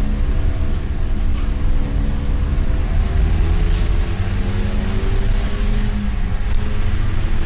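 Mitsubishi Lancer Evolution V's turbocharged 2.0-litre four-cylinder engine running hard on track, heard from inside the cabin over a heavy low road and drivetrain rumble. The engine note sags slightly, then rises steadily from about three seconds in as the car accelerates.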